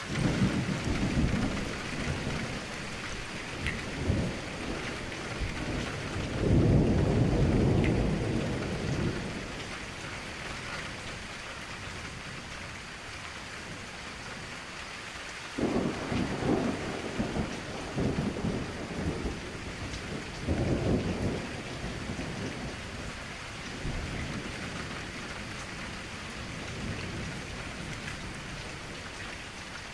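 Steady rain falling against a window, with rolls of distant thunder rumbling through it: a long, loud roll a few seconds in, and shorter rumbles past the middle.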